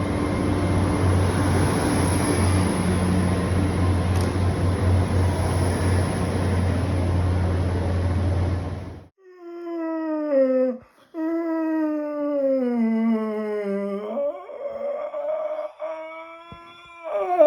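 Train noise, a steady rumble with a low hum, stops abruptly about nine seconds in. It is followed by a long, wavering howl in several drawn-out notes that slide down and back up in pitch.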